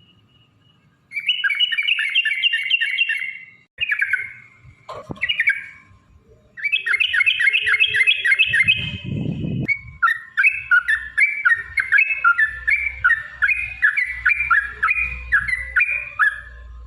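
Yellow-vented bulbul (trucukan) singing fast, bubbling rolled phrases of quickly repeated notes. There are several phrases with short breaks between them, and the last is the longest, running for several seconds. A brief low rumble sounds about nine seconds in.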